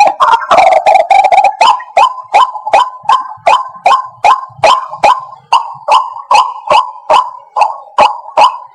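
White-breasted waterhen calling: a dense, overlapping run of harsh calls for the first second and a half, then a steady series of short, falling notes repeated about three times a second.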